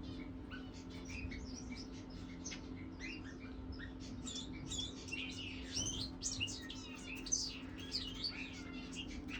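Birds chirping: a stream of short, high chirps that grows busier about halfway through, over a steady low hum.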